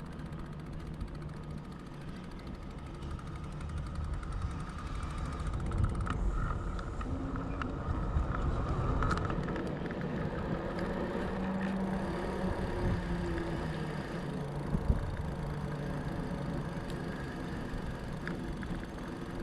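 Fat bike riding along on 4.4-inch Schwalbe Jumbo Jim tyres: a steady low rumble of the wide tyres rolling, with a faint wavering hum and a few sharp clicks and rattles, one louder knock about fifteen seconds in.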